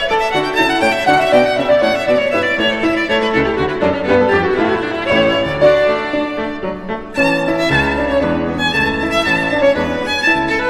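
Background music led by a violin playing a melody, with fuller accompaniment and deeper notes joining about seven seconds in.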